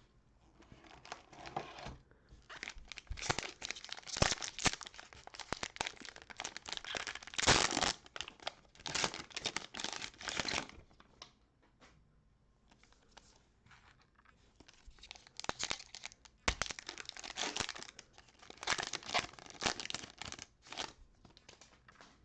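Cellophane wrapper of a Panini Prizm cello pack of trading cards being torn open and crumpled, crackling in irregular bursts over two stretches with a short lull about halfway through.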